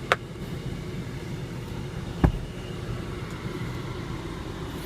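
Steady low hum of the running car heard inside its cabin, with two short clicks, one right at the start and a heavier one about two seconds later.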